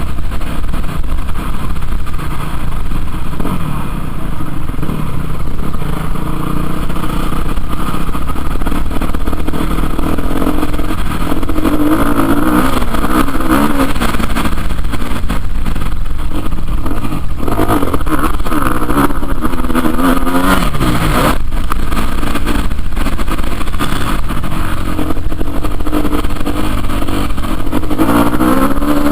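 Motocross motorcycle engines revving, their pitch rising and falling as the bikes accelerate and shift, over a constant low rumble. The revving is clearest in the middle and again near the end.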